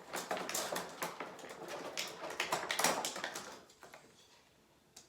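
Plastic toy train-set parts and packaging being handled: a quick run of small taps, clicks and rustles that dies away about four seconds in.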